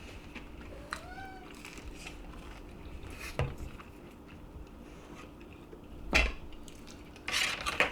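A cat meows once, a short cry that rises and falls, about a second in; a few clinks of dishes and cutlery follow.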